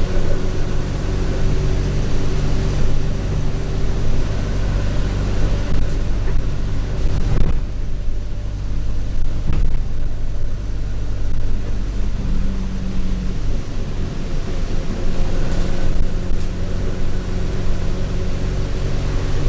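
Alexander Dennis Enviro 200 bus engine running under way, heard from inside, with a steady low drone, a thin high turbo whine for most of the stretch and body rattles. There are two sharp knocks a couple of seconds apart around the middle.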